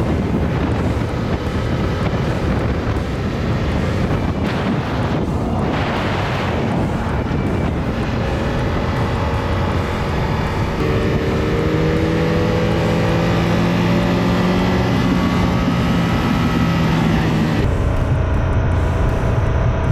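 Motorcycle on the road: wind rushing over the helmet-camera microphone under the engine's running. About halfway through, a steady engine note holds for several seconds and sinks slightly in pitch, and the sound changes abruptly near the end.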